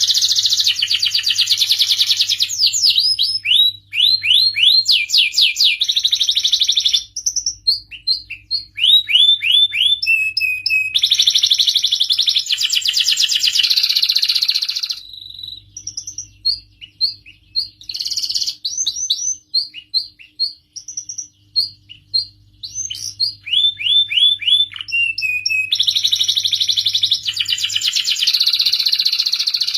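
Domestic canary singing a long, varied song: dense rapid trills alternate with runs of repeated falling notes and separate whistled notes, with short pauses between phrases.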